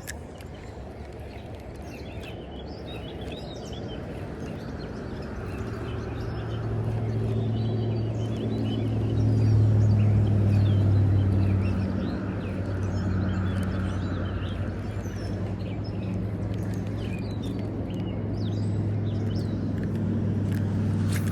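A motor vehicle's engine humming steadily, building up to its loudest about ten seconds in and carrying on, with birds chirping throughout.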